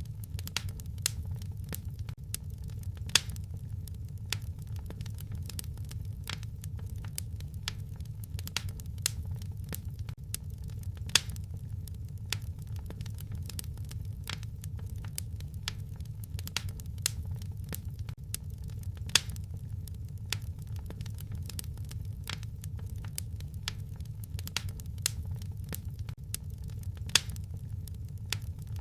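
Wood fire crackling, with a steady low rumble and a stream of small sharp pops. A louder pop comes about every eight seconds, the same one repeating as the recording loops.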